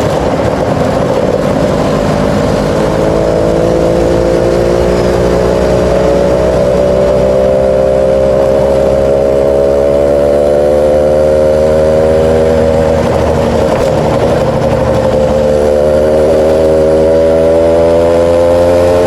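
Suzuki Tornado motorcycle engine running under way, its pitch climbing slowly as it gathers speed. About two-thirds of the way through it dips briefly, then climbs again.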